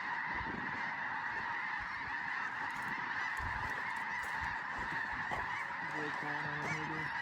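A large flock of snow geese calling all at once, a dense steady chorus of high honks with no break.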